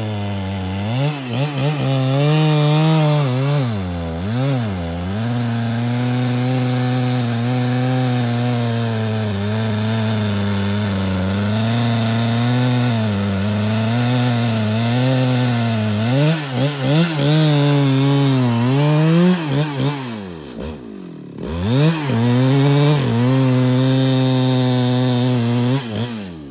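Husqvarna 395XP two-stroke chainsaw cutting trembesi wood at full throttle, its pitch repeatedly sagging and recovering as the engine bogs under the load of the cut. About twenty seconds in it drops almost to idle, then revs back up, and it falls off sharply at the very end.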